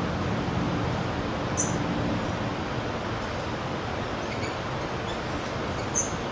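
Two short, high-pitched wild bird chirps, one about a second and a half in and a louder one near the end, with a few fainter high peeps between, over steady background noise.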